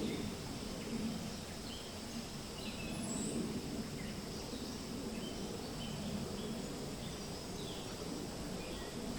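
Wind rustling through forest leaves in slow swells, with birds chirping: many short, high calls scattered throughout.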